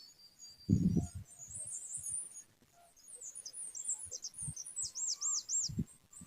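Small songbirds chirping and twittering in quick high notes, with a run of four looping whistled notes near the end. A few dull low thumps break in, the loudest about a second in.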